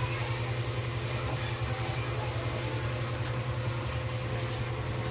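Washing machine motor running with a steady low hum and a few steady overtones, and a brief click about three seconds in.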